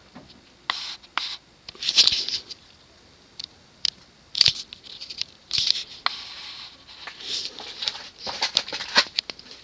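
Irregular scratching, rustling and sharp clicks at close range, the sound of something being handled.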